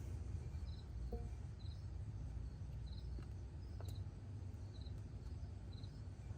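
A cricket chirping faintly about once a second, each chirp a short run of a few high pulses, over a low outdoor rumble, with a few faint clicks of parts being handled.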